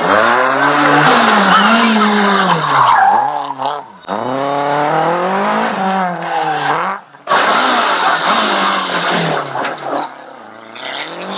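Rally car engine revving hard, its pitch climbing and dropping again and again through gear changes, with a brief break near the middle. It fades after about ten seconds.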